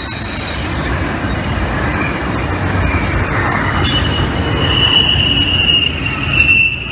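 CSX intermodal freight cars, double-stack container cars and trailer flatcars, rolling past close by: a steady low rumble of steel wheels on rail with a few light clicks. A high-pitched squeal from the wheels comes in about four seconds in.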